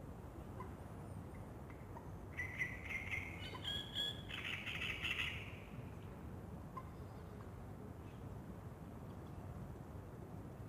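Birds calling at a lakeside at dawn: a harsh, squawking run of rapid calls lasting a few seconds, among a few faint short chirps, over steady low outdoor background noise.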